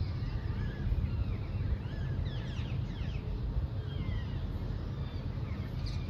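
Small birds chirping, many short calls sliding down in pitch and overlapping, over a steady low rumble.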